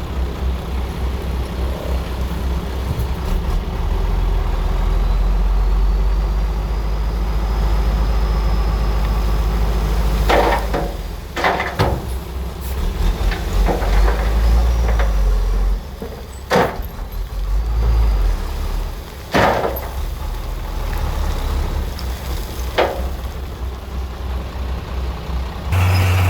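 Heavy diesel engine of a bulldozer running under load, with several sharp metallic clanks about halfway through and after. The engine note changes abruptly near the end.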